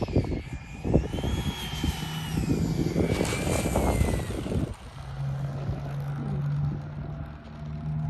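Large radio-controlled model airplane in flight, its engine and propeller whine rising and falling in pitch as it flies around, over rough wind noise on the microphone. About five seconds in, the high whine fades and a low steady hum remains.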